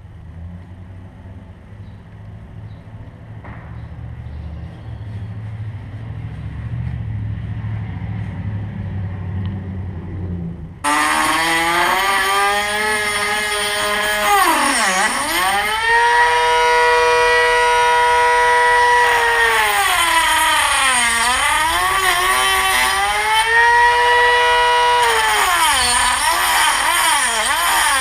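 High-speed rotary tool (Dremel) cutting through the trolling motor's shaft. It starts about eleven seconds in with a loud, steady whine, and the pitch sags each time the wheel is pressed into the cut, then recovers. Before it starts there is a low hum that slowly gets louder.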